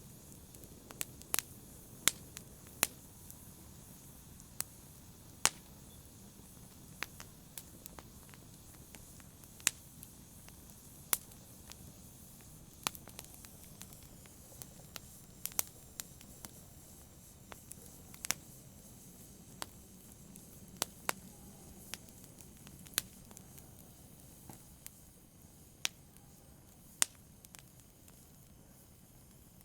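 Campfire crackling: sharp, irregular pops and snaps of burning wood, roughly one a second and varying in strength, over a faint low steady rush of the fire.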